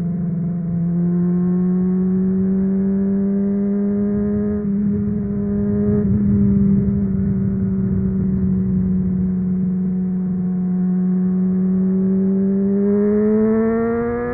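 Honda CBR600RR's inline-four through a MIVV Suono exhaust, pulling at steady, slowly climbing revs while riding, with low wind and road rumble underneath. Near the end the revs rise more sharply, then break briefly, as at a gear change.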